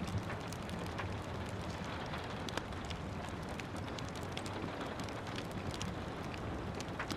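Steady rain hiss with a fireplace crackling over it: frequent sharp pops and snaps scattered irregularly through the even rain noise.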